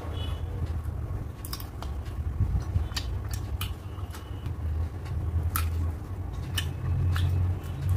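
Close-up chewing of rice and curry, with many short wet mouth clicks and smacks, over a steady low rumble that grows louder near the end.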